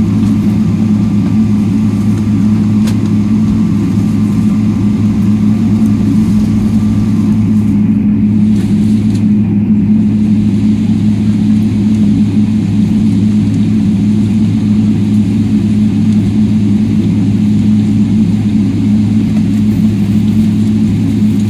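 Steady, loud low drone of a moving vehicle, a constant hum with a hiss over it.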